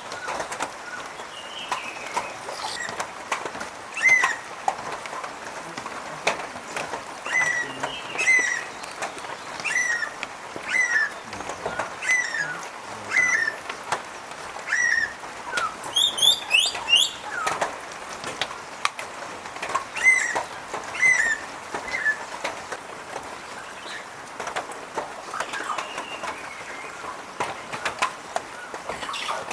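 Birds calling: a run of short, sharp call notes about once a second, with a brief flurry of higher, rising notes about halfway through.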